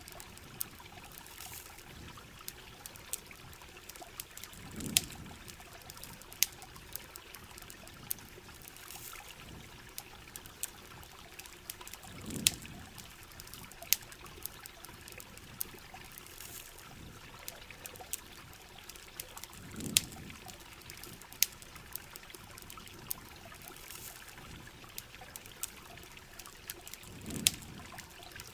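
Steady rain and running water with sharp campfire crackles scattered throughout, and a low swell that comes back about every seven and a half seconds.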